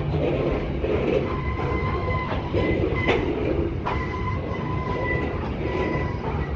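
Freight train of hopper wagons rolling past at close range: a continuous rumble of wheels on rail, with sharp knocks as wheels cross rail joints. A steady high squeal from the wheels comes in twice, each time for about two seconds.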